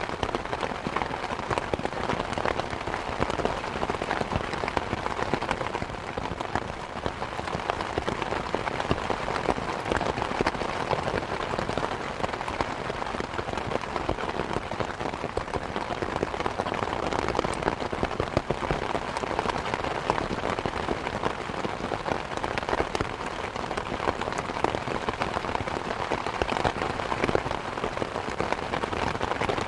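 Steady rain mixed with a wood fire crackling, with frequent small irregular pops.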